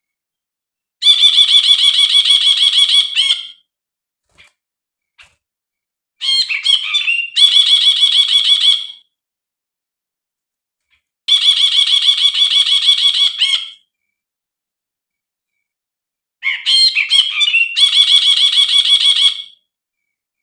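Brinji (bulbul) call recording: four bouts of a rapid trill of quickly repeated notes, each lasting two to three seconds, with silent gaps between. Two of the bouts open with a few quick sliding notes.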